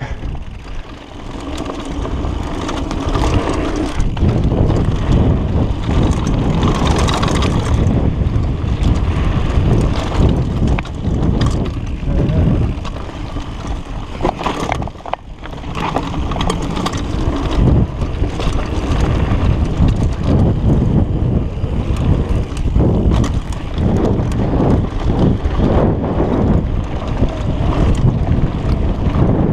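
Mountain bike descending a dirt downhill trail: wind rumbles on the camera microphone while the tyres run over the dirt and the bike rattles over bumps, with many short knocks. There is a brief lull about halfway through.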